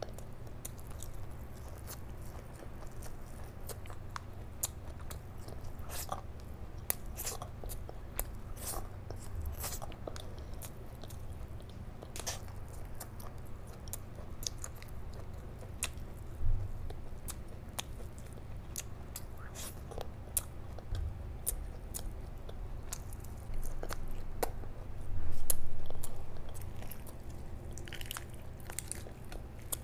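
Close-miked wet chewing and lip-smacking of someone eating chicken curry and rice by hand, with many short sharp clicks, over a steady low hum. About 25 seconds in comes the loudest sound, lasting about a second.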